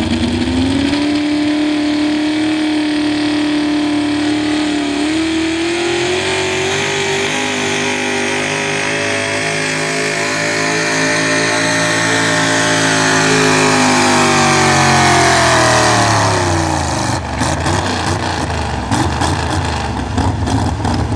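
Super stock pulling truck's engine at full throttle under load, revs held high, then falling away over a few seconds as the truck slows at the end of its pull. Near the end, irregular crackling clicks.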